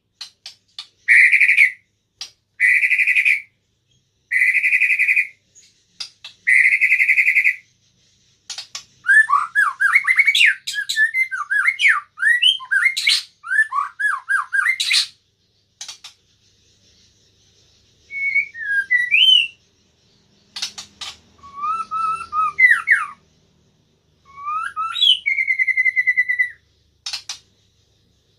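A murai batu (white-rumped shama) singing. It opens with four long, even whistled notes, then runs into fast, varied phrases of rising and falling notes, pauses briefly, and goes on with more varied phrases before ending on a held note.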